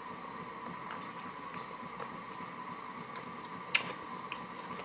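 Faint chewing sounds from eating a soft taco: a few short mouth clicks and smacks, the sharpest just under four seconds in, over a steady faint hum.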